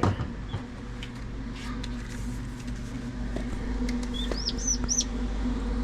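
Newly hatched turkey poults peeping inside an incubator: a few short, high calls, each rising and falling in pitch, come about four to five seconds in, over a steady low hum.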